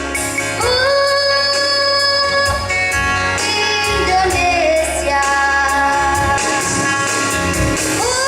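A child singing in a high, shrill voice, holding long notes that scoop up in pitch onto the note about half a second in and again near the end, over a musical accompaniment with a steady low beat.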